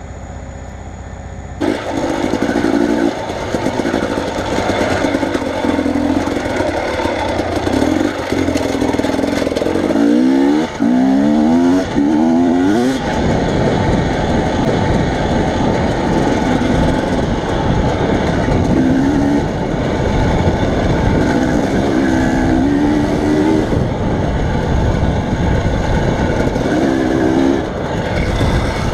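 Motor vehicle driving, its engine running under loud wind and road noise, which jumps up suddenly about two seconds in. The engine pitch rises and falls a few times, most clearly around the middle.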